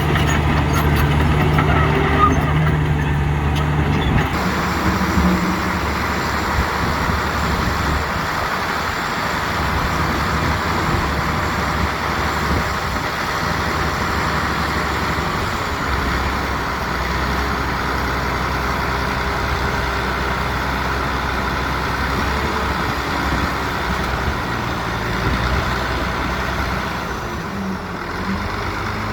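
Heavy diesel earthmoving machinery running steadily, the low engine drone of dump trucks and a bulldozer at work. The sound shifts about four seconds in and again near the end.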